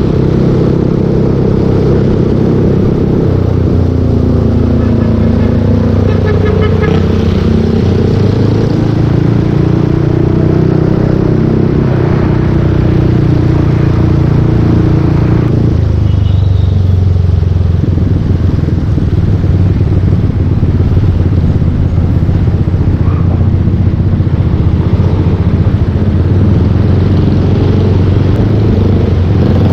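Yamaha Aerox 155 scooter's single-cylinder engine running through a full Yoshimura aftermarket exhaust while riding, the engine note shifting up and down with the throttle.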